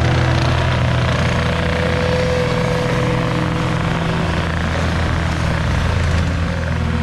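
Plow truck engine running steadily, with an even rushing noise over it.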